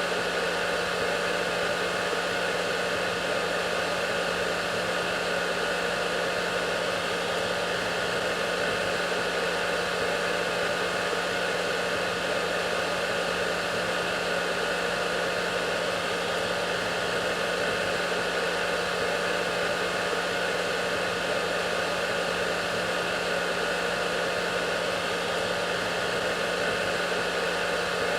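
Hair dryer running steadily: a constant rush of air with a steady hum under it, unchanging throughout.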